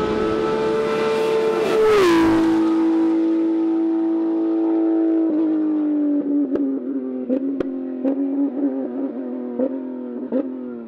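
Rally car passing at speed: its engine note drops sharply in pitch as it goes by, then runs on at a steady pitch. From about six seconds in, a series of sharp pops and cracks comes over the engine as its revs slowly fall.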